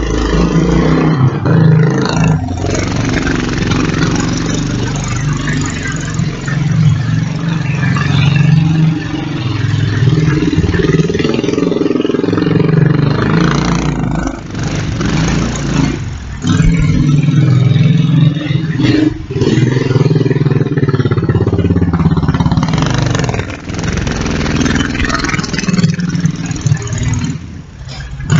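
Kawasaki Bayou 300 ATV's single-cylinder four-stroke engine running under way, the revs rising and falling with the throttle. The engine sound drops briefly several times as the throttle is let off.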